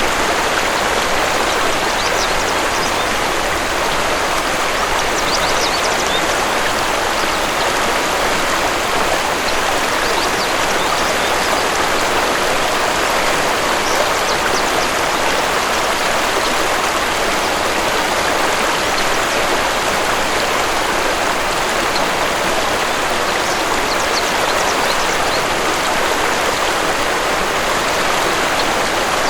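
Waterfall rushing steadily, with faint bird chirps now and then.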